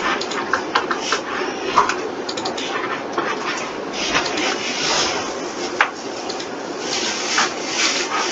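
Irregular clicking and tapping, most likely a computer mouse and keyboard being worked, over a steady background hum.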